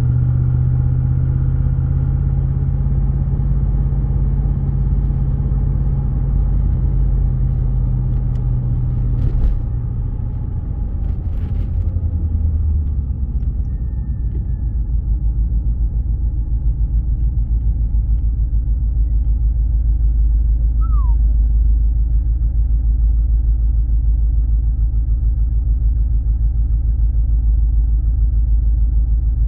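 Twin-turbo LS V8 engine of an LS-swapped BMW E36 droning steadily under way. About ten seconds in there are a couple of clicks and the engine note drops, then it holds a lower, steady drone.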